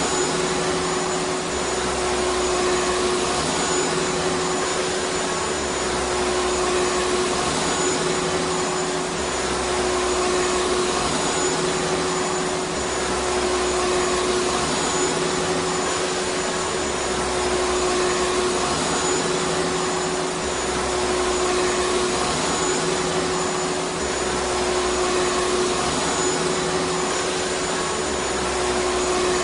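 Vacuum cleaner running steadily: an even rushing noise with a constant motor hum, and a faint low pulse repeating about every two seconds.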